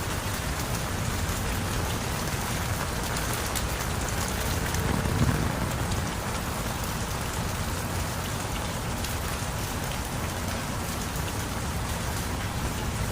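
Heavy rain falling steadily, a dense even hiss of drops on surfaces, with a brief low rumble about five seconds in.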